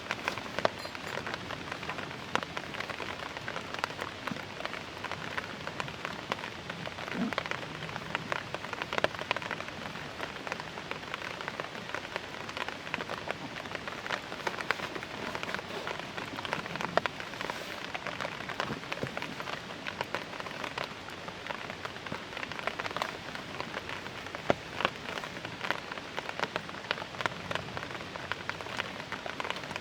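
Steady rain falling, with many separate drops tapping on a tarp overhead.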